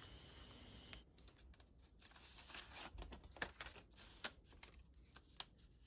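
Near silence, with faint scattered light clicks and taps from small objects being handled.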